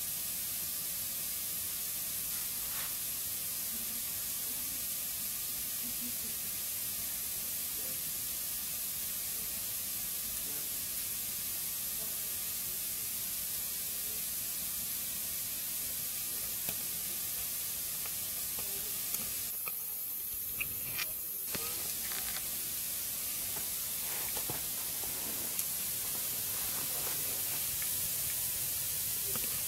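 Wood fire burning in a fireplace: a steady hiss with scattered sharp crackles and pops, more of them in the second half.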